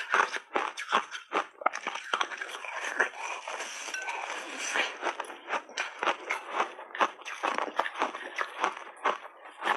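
Refrozen block ice being bitten and chewed: a rapid, irregular run of sharp crunches. A stretch of more continuous grinding crunch comes about two seconds in and lasts a few seconds.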